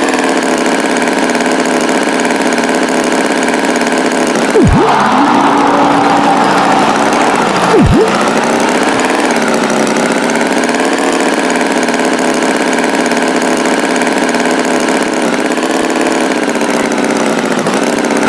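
A tractor engine running steadily, its pitch wavering slightly in places. About five seconds in and again about three seconds later there are two brief swooping sound effects.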